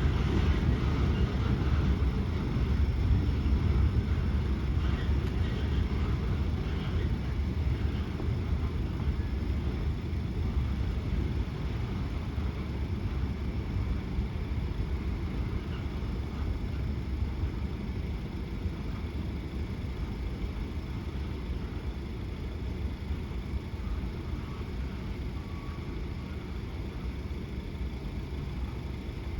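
Freight train rolling by on the track, a low rumble that slowly fades as the train moves away.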